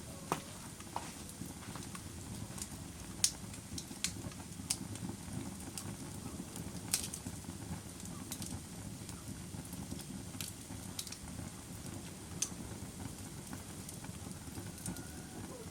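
Campfire burning with a steady low rumble and irregular sharp pops and crackles, about a dozen over the stretch.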